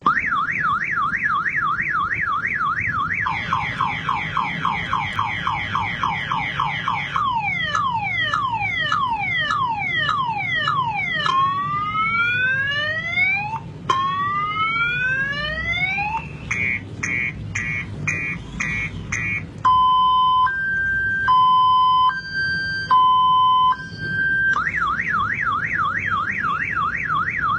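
Multi-tone car alarm siren cycling through its patterns. It runs a fast warble, then slower up-and-down sweeps, falling chirps, rising whoops, rapid beeping and an alternating hi-lo two-tone, and goes back to the fast warble near the end.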